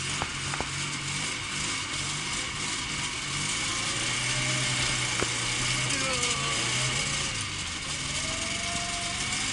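Zhiguli (classic Lada) engine idling steadily.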